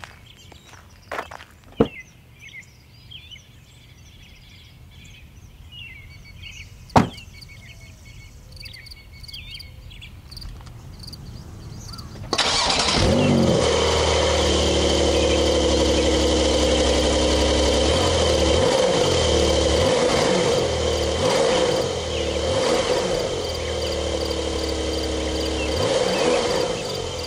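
Birds chirping and two sharp knocks. Then, about twelve seconds in, the Porsche 911 992 Carrera S's twin-turbo 3.0-litre flat-six starts abruptly and runs at a steady idle, heard from behind the car at its tailpipes.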